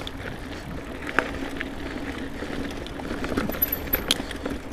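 Mountain bike riding singletrack, heard from a helmet or bar-mounted action camera: steady tyre and trail noise with scattered sharp clicks and knocks of the chain and frame rattling over bumps.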